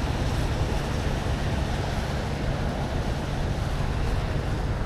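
Steady wind rush buffeting the microphone of a moving bicycle, a low rumble under an even hiss.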